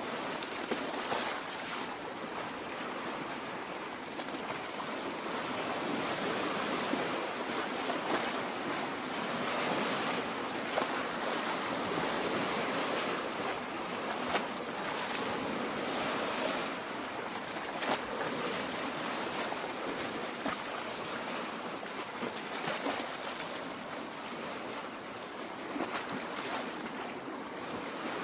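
Lake water washing and lapping along the shore: a steady rush of water broken by small, brief splashes, swelling slightly in the middle.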